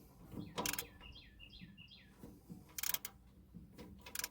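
A few sharp clicks and knocks as a hydraulic filter on a zero-turn mower's wheel motor is snugged up. Near the start a bird chirps a quick run of four or five notes.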